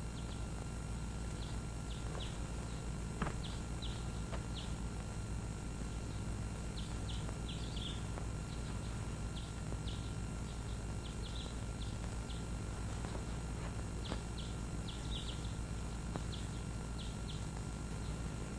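Small birds chirping, short high notes scattered irregularly, over the steady hum and hiss of an old film soundtrack. A single click sounds a little over three seconds in.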